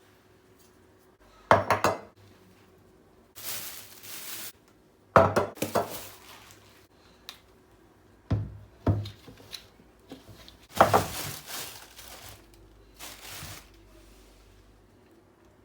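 Dishes and cutlery being handled in a kitchen: several separate bursts of clinking and clattering, with a couple of short scraping or rustling stretches between them.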